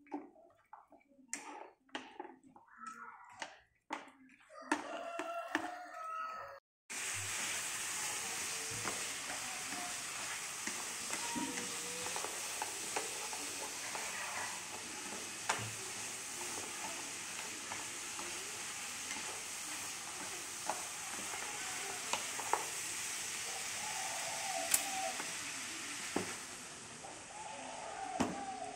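Pork ribs sizzling in a wok as they are stir-fried and turned with chopsticks, with occasional sharp clicks of the chopsticks against the pan. The steady sizzling starts abruptly about seven seconds in, after a stretch of scattered clicks and short sounds.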